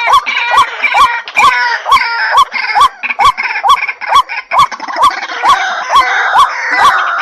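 White-breasted waterhen calling: a fast, regular series of short hooked notes, about two or three a second, each with a sharp click at its start. Harsher chattering calls run over them.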